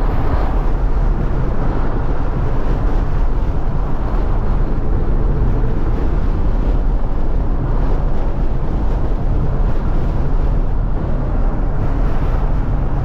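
A 2014 Ford Mustang GT's 5.0 Coyote V8 running steadily while the car is driven, its exhaust drone mixed with road and wind noise.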